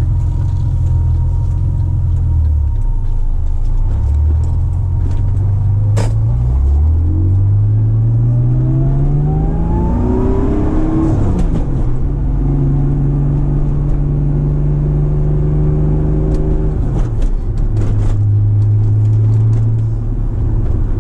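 Twin-turbocharged Acura NSX V6 heard from inside the cabin during gentle city driving. It runs steadily, then the revs climb smoothly through a gear for about four seconds and drop at an upshift around halfway. After that it settles to an even cruise, with another brief dip in revs near the end.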